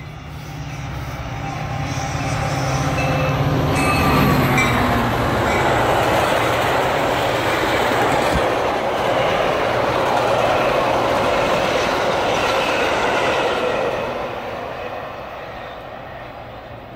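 A Metra commuter train of stainless bilevel cars passing close at speed. A low diesel locomotive engine tone comes in as it nears, then the steady rumble of wheels on the rails, which fades over the last few seconds as the train moves away.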